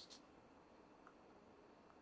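Near silence: room tone, with a faint, brief rustle at the very start.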